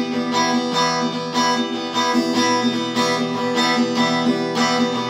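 Acoustic guitar strumming chords in an instrumental passage of the song, with no singing.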